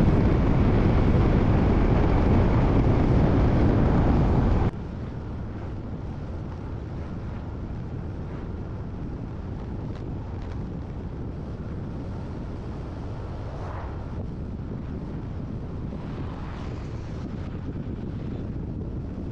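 Wind rushing over the microphone and road noise of a moving motorbike, loud at first, then cutting abruptly to a quieter, steady rush about five seconds in.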